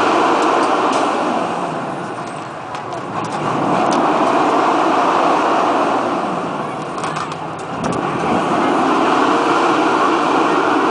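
Road traffic: vehicles passing at an intersection, the engine and tyre noise swelling and fading as each goes by.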